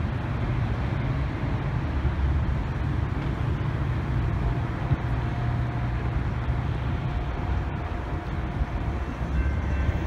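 Metra commuter train pulling away, a steady low rumble of the locomotive and rolling wheels.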